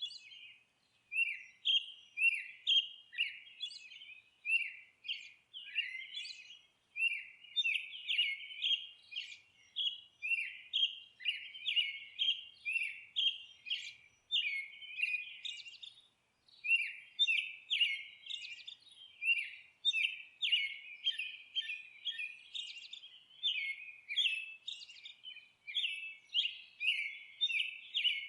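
Songbirds singing: quick runs of short, falling whistled notes, about three or four a second, broken by brief pauses, with fainter high chirps over them.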